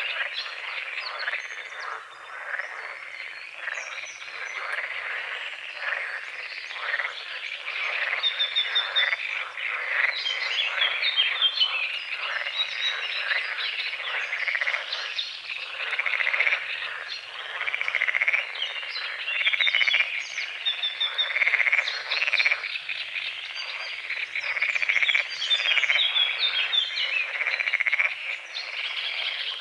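A chorus of many frogs croaking at once in dense, rapid rattling calls, with a few birds chirping over them.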